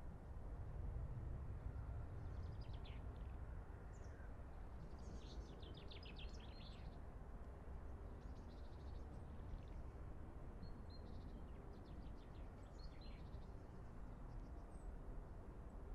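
Birds singing in short, scattered phrases over a steady low outdoor rumble.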